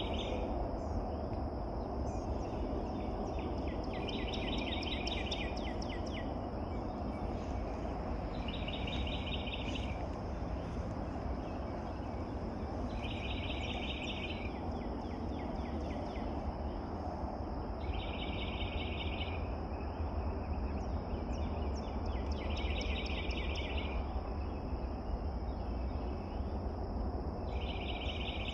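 Birdsong outdoors: a high, buzzy trill lasting about a second and a half repeats about every four and a half seconds, with fainter short chirps between the trills, over a steady low rumble of background noise.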